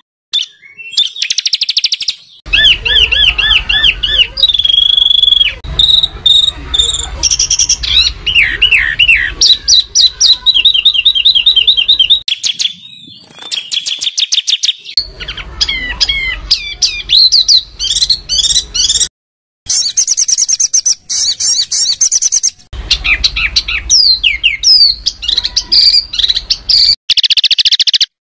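Songbirds singing loud, rapid chattering trills and whistled phrases, the harsh 'tembakan' bursts used to train competition songbirds. The recording is spliced from several clips, with abrupt cuts and two brief dropouts to silence.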